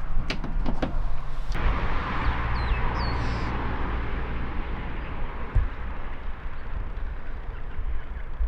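A few sharp clicks, then from about a second and a half in a steady outdoor background with a low rumble. A few short bird chirps come around three seconds in.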